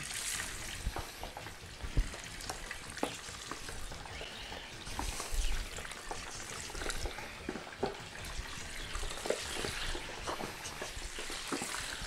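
Pieces of boiled pork skin frying in boiling lard in a large steel pot as they are lowered in with tongs: a steady sizzle with sharp crackles throughout, the loudest about two seconds in.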